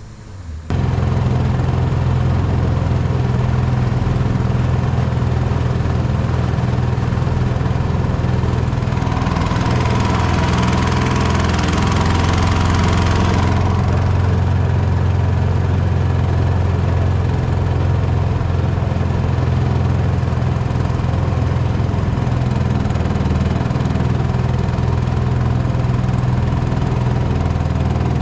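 MudSkipper mud motor on a Jon boat running steadily under way, a loud even drone. A rushing hiss joins it for about four seconds near the middle.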